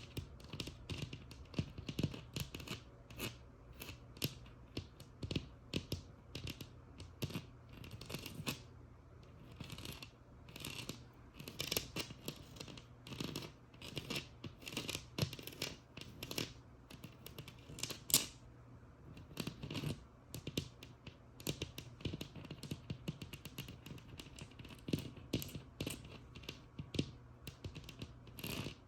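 Tapping and scratching on a textured wall: quick, irregular taps mixed with short rasping scratches.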